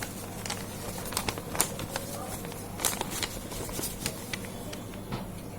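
A sheet of paper being handled and folded, with scattered sharp crackles and rustles as it is pressed and creased.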